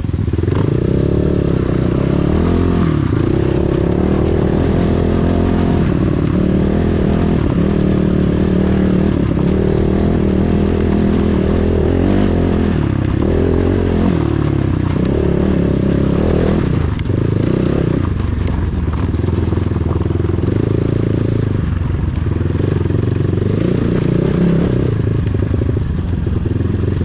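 Enduro motorcycle engine running under load while being ridden, its revs rising and falling again and again with the throttle.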